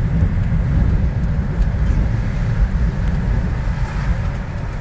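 Strong wind gusts buffeting the microphone: a loud low rumble that rises and falls unevenly.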